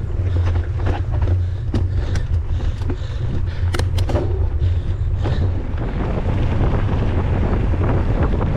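Wind buffeting the microphone as a mountain bike is ridden along a trail, a steady low rumble with scattered sharp clicks and rattles from the bike over rough ground. The wind noise grows louder after about six seconds.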